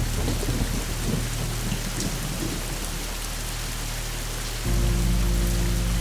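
Steady rain falling, with thunder rumbling low and unevenly through the first half. About four and a half seconds in, a deep steady tone swells in under the rain.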